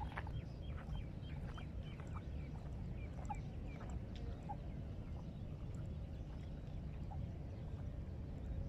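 Small birds chirping in quick series of short calls, mostly in the first two seconds and again about three seconds in, over a steady low rumble.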